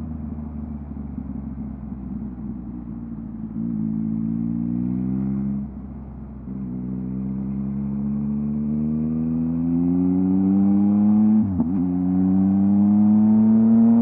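Yamaha MT-09 three-cylinder engine through a LeoVince LV Race exhaust. It runs off the throttle with a rough, burbly note for the first few seconds, then pulls up through the revs with a rising pitch. The pitch falls briefly about a third of the way in and again near the end, the way it does at a gear change, then climbs once more.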